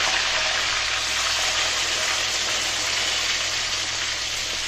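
Tomato wedges sizzling steadily as they fry in hot oil in a black iron karahi.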